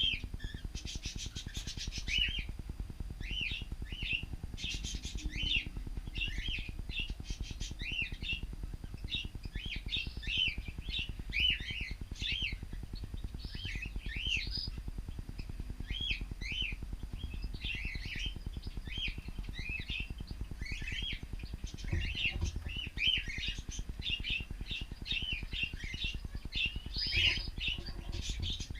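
Cockatiels chirping almost without pause, short curved calls several a second, over a steady low rumble.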